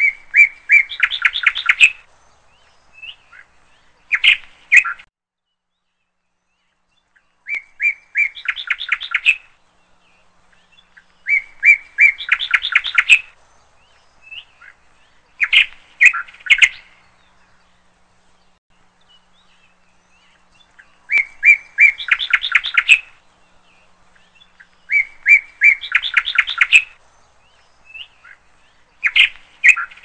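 A songbird singing the same short, quick phrase of repeated chirping notes about every four seconds, with shorter two- or three-note calls in between.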